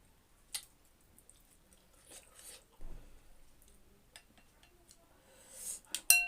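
Close-miked eating of chicken noodle soup: soft chewing and small mouth clicks, then a louder slurp near the end, followed by a spoon clinking against the bowl.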